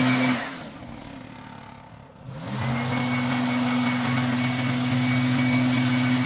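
An engine running at a steady speed cuts out about half a second in, then after about two seconds comes back, rising quickly in pitch before settling to a steady hum again.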